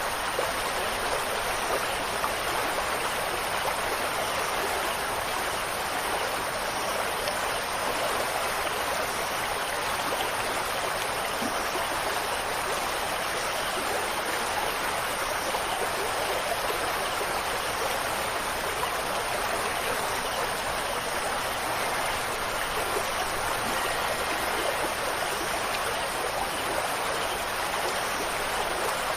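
Steady rushing water, an even unbroken hiss of flowing water with no change throughout.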